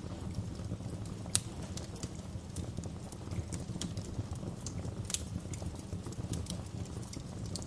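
Wood fire crackling in a fireplace: a steady low rumble of flames with irregular sharp pops and snaps, the loudest about a second and a half in and another about five seconds in.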